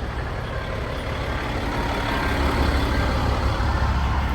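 Low, steady rumble of vehicle engines running in a line of waiting cars, growing slightly louder.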